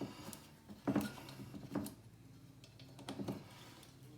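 Light, sharp clicks, as of buttons being pressed on an ultrasonic cleaner's control panel to set it heating. A few come spaced apart, then a quick cluster about three seconds in, over a faint steady low hum.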